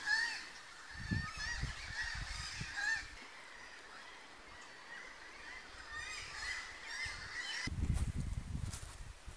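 Birds calling, many short repeated calls, with low rumbles about a second in and again near the end.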